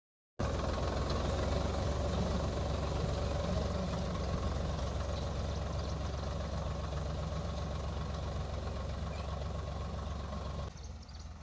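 Tractor engine running steadily at a constant speed; about ten and a half seconds in the sound abruptly drops to a quieter, duller level.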